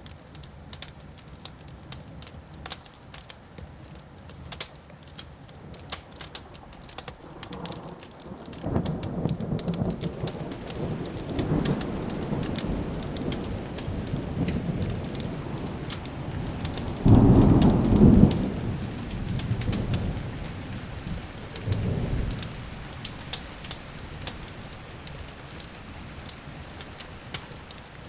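Wood fire crackling with fine pops throughout, while a long roll of thunder builds about a third of the way in, peaks loudest with a heavy rumble just past the middle, swells once more and fades away.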